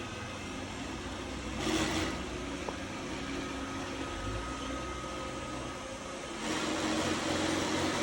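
iRobot Roomba S9 robot vacuum running with a grinding noise, louder for a moment about two seconds in and again near the end. The owner wonders whether the grinding comes from the wheels or is normal for the S9.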